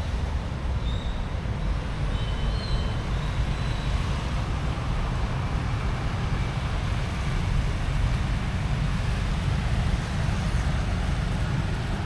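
Steady road traffic of a busy street: a continuous low rumble with no single vehicle standing out, and a few faint high chirps in the first few seconds.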